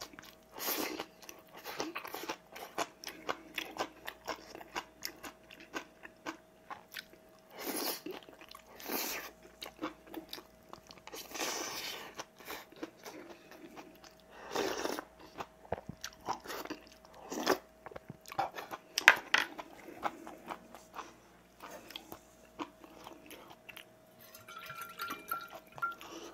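Close-up chewing and smacking of a man eating rice and seasoned namul greens: a long run of short, irregular wet mouth sounds, with a spoonful of soup slurped about halfway through.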